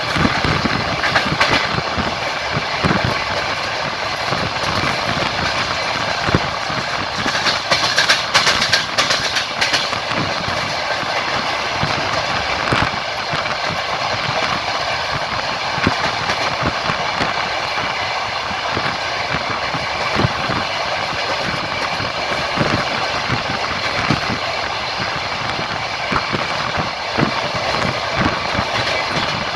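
Passenger train running along the line, heard from on board: a steady rumble with the wheels clicking over the rail joints. About eight seconds in there is a louder stretch of rattling.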